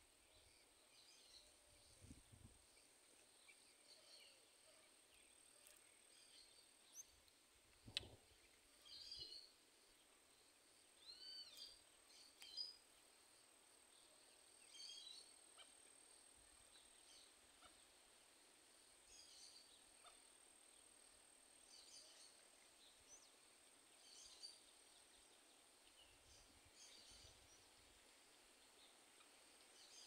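Faint, scattered calls of several wild birds: short chirps and whistles every second or two, over a steady faint high-pitched whine. A single sharp click about eight seconds in.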